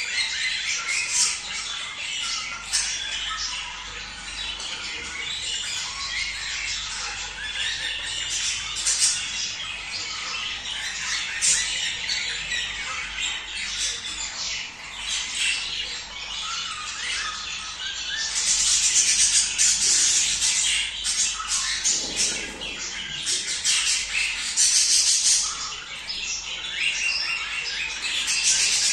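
A flock of budgerigars chattering, warbling and squawking without a break: the calls of breeding-season budgies, used to stimulate mating. The chatter gets louder about two-thirds of the way through.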